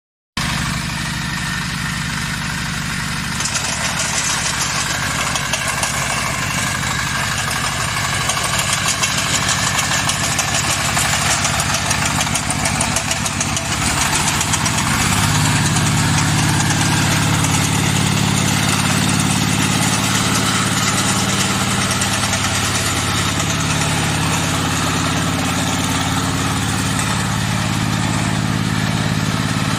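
Mini tractor engine running steadily at idle, its note shifting about fifteen seconds in.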